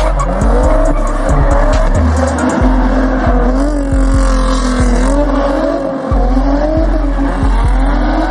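Car doing a burnout: the engine is held at high revs, its pitch wavering up and down, with tires squealing. Music with a heavy bass beat plays over it.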